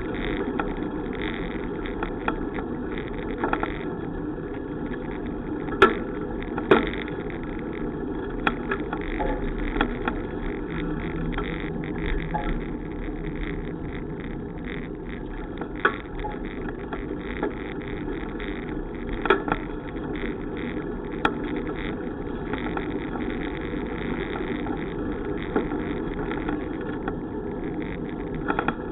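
Steady rushing noise of a bicycle ride: wind and tyre noise on the riding camera's microphone, with a few sharp knocks or rattles, the loudest two close together about six seconds in.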